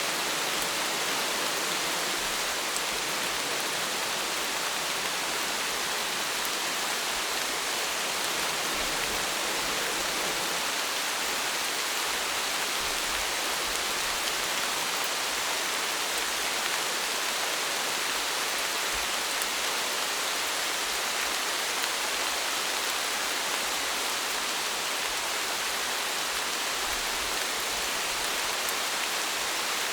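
Steady rain falling, an even hiss of many drops with no let-up or change in strength.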